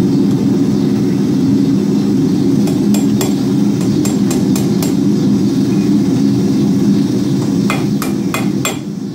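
Hand hammer striking a hot steel rod on an anvil's horn to bend a hook, in a run of quick metallic blows about a third of the way in and another cluster near the end. A steady low drone runs underneath.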